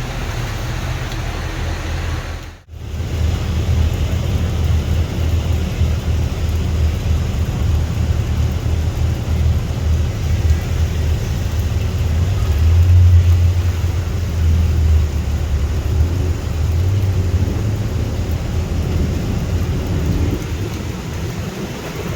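Steady low rumble and hiss of traffic on a wet road in the rain, with a brief dropout about two and a half seconds in.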